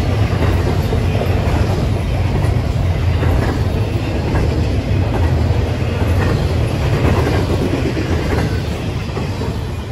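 Train rolling past, a steady rumble with wheels clicking over rail joints.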